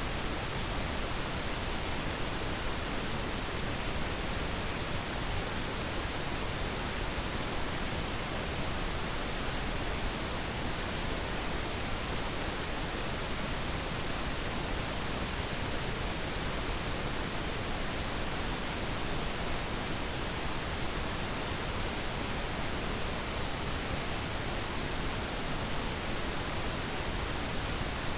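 Steady pink noise: an even, unbroken hiss spread across all pitches, with no chimes or other events.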